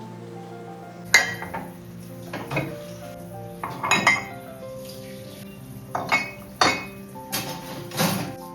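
Dishes and cutlery clinking and knocking, about seven sharp clinks at irregular intervals, over soft background music.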